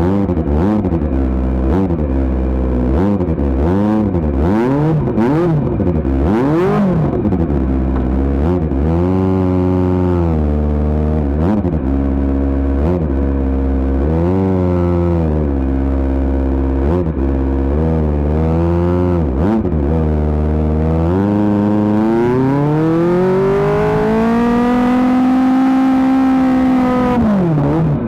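Kawasaki ZX-25R's 250 cc inline-four revving through an Akrapovic GP exhaust: a string of quick throttle blips, then one long rise in pitch that is held high before dropping back near the end.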